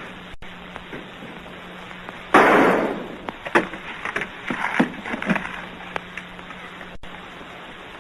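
A loud bang about two and a half seconds in, dying away over half a second, followed by a scatter of sharper knocks and clatters. Underneath is the steady hiss and low hum of an early sound-film track.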